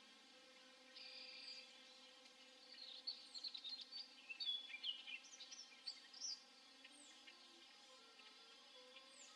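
Faint bird calls: a run of quick, high chirps and short gliding notes through the middle of the stretch, after a brief high buzz about a second in, over a faint steady hum.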